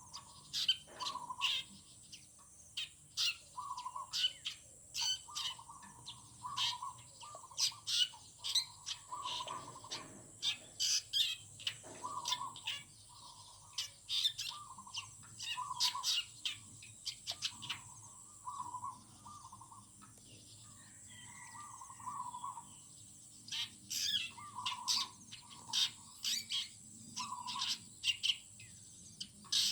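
Several wild birds singing together: rapid sharp high chirps and trills, over a lower short call repeated every second or two.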